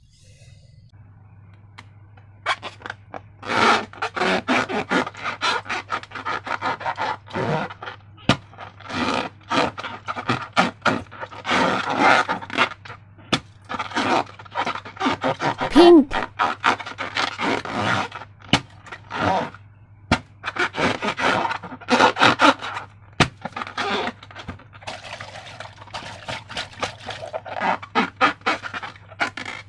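Slime being worked by hand: irregular sticky crackling and squelching with sharp little pops, starting about two seconds in and going on in quick clusters with short pauses.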